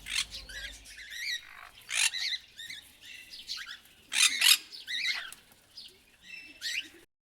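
Bird calls: a series of high chirps and squawks that bend in pitch, the loudest about two seconds in and again around four seconds in, cutting off abruptly near the end.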